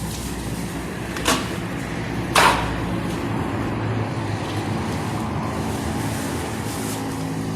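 A motor running steadily with a low, even hum, and two sharp knocks about one and two and a half seconds in.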